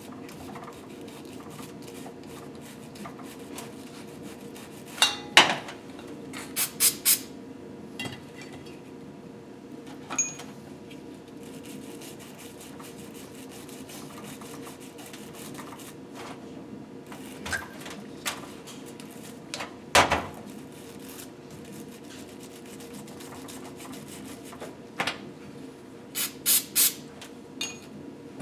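Metal engine parts and tools being handled on a workbench: scattered sharp clinks and taps in a few short clusters, over a steady low hum.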